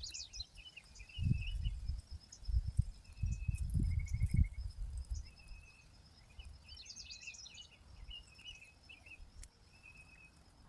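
Small birds chirping and trilling on and off in the yard, with a cluster of rapid calls near the start and again about seven seconds in. From about one second to four and a half seconds in there are louder low, muffled thumps and rumbles.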